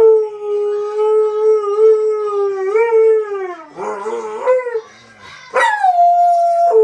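Dog howling in long held notes. The first howl holds steady, lifts slightly, then slides down a little past the middle. After a short break, a second howl starts high and drops to a held note near the end.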